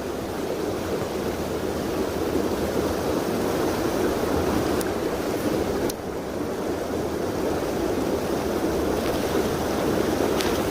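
Mountain stream rushing over rocks: a steady rush of running water that dips briefly about six seconds in.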